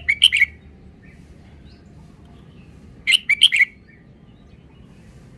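Red-whiskered bulbul singing two short, quick phrases of several notes each, the first at the start and the second about three seconds in.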